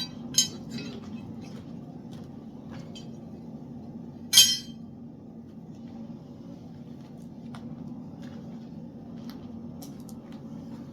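Forged steel pieces clinking as they are handled and set down: two sharp metallic clinks, about half a second and four and a half seconds in, the second the louder, with light ticks and knocks between, over a steady low hum.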